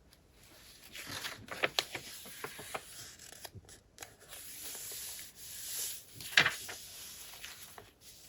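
Paper pages of a handmade junk journal being handled and turned: soft rustles, rubbing and small crinkling clicks, with one louder page swish about six seconds in.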